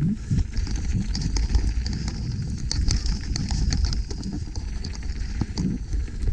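Wind rumbling on the microphone of a rider moving downhill, with a rapid, irregular clatter of knocks and rattles from riding over rough ground.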